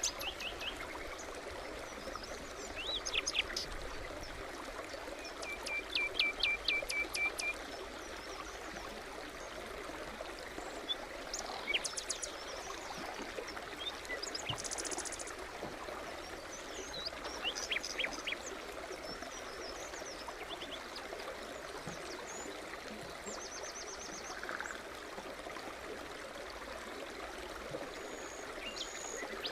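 Forest stream babbling steadily, with songbirds calling every few seconds in short chirps and quick trills of repeated notes.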